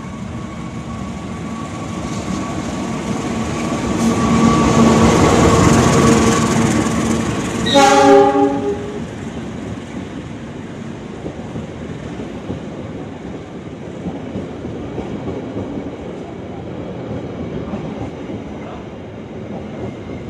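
CC 206 diesel-electric locomotive approaching and passing, loudest about four to seven seconds in, with a short horn blast of about a second just after. Then its passenger coaches roll steadily past with wheel clatter.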